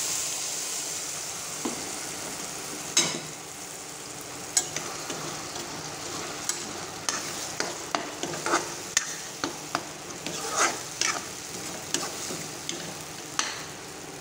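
Ground taro paste frying in hot mustard oil in a metal kadai, sizzling steadily and easing off over the first few seconds. A metal spoon scrapes and clinks against the pan as the paste is stirred, the clinks coming more often from about halfway through.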